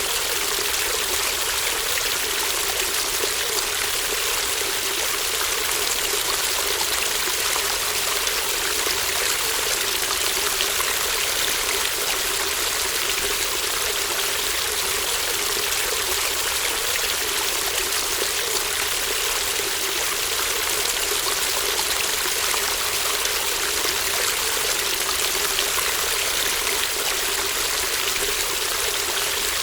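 Shallow stream babbling and trickling over stones, a steady, even rush of running water.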